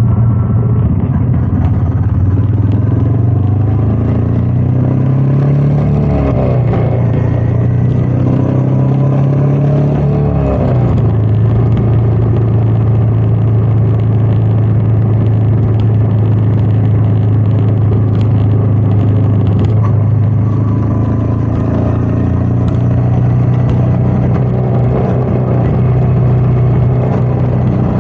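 Royal Enfield Meteor 350's single-cylinder engine running under way, with wind noise. Its pitch shifts about six and ten seconds in, then holds steady.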